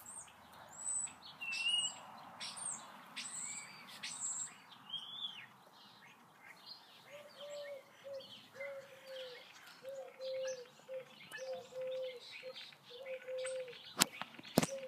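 Songbirds chirping and calling, with short, high, curving notes in the first few seconds. From about halfway, a series of low, short notes repeats at an even pace, and two sharp clicks come near the end.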